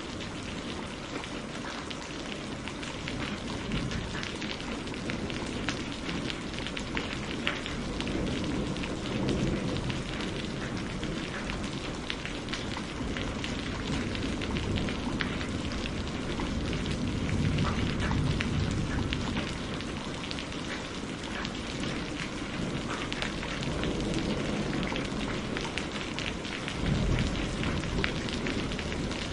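Steady rain falling, a dense hiss with many individual drops pattering on a surface. A low rumble swells and fades a few times, about every nine seconds.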